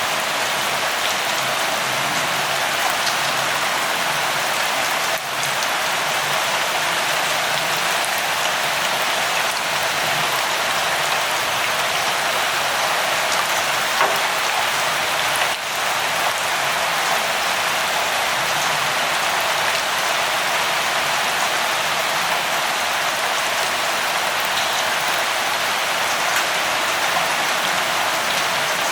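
Light rain falling steadily, an even hiss with scattered drop ticks. It dips for an instant twice, about five seconds in and again past the middle.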